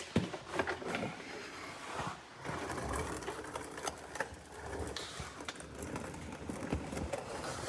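Plastic wiring harness and its sensor connector being handled and worked loose in a car's engine bay: irregular rattling, rustling and small clicks.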